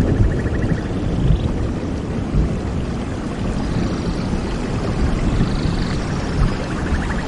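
Wind buffeting the microphone: a steady low rumbling roar, with a few faint high chirps in the background.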